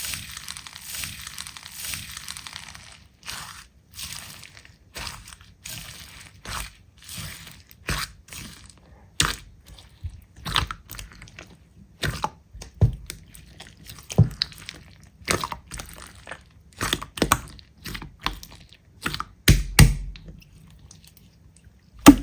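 Slime being squeezed and pressed, crunching and crackling: a dense crackle for the first few seconds, then irregular sharp pops and clicks.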